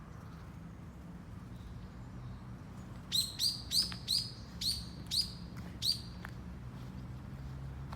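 A bird calling in a quick series of about seven short, sharp, high notes, starting about three seconds in and stopping about three seconds later.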